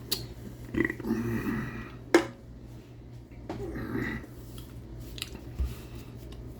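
A person chewing food with a few noisy mouthfuls, and a sharp click about two seconds in.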